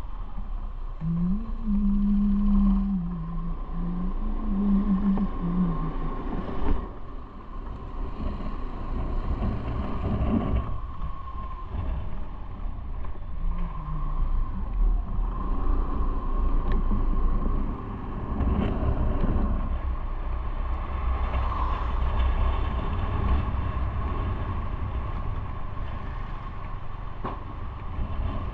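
Motorcycle engine running while riding, with road and wind noise. In the first few seconds the engine note rises and falls a couple of times, as with throttle changes or shifts.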